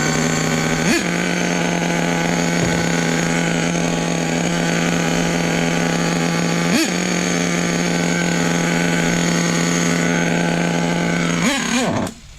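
Small nitro RC truck engine running at a steady high pitch, briefly dipping twice, then bogging down and cutting out near the end. The owner suspects it is running lean, sucking air from somewhere.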